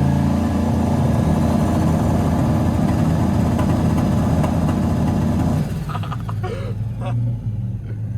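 Turbocharged LS V8 engine held on the two-step launch limiter, a loud rapid choppy stutter. About two-thirds of the way in it drops off suddenly to a lower, steady rumble.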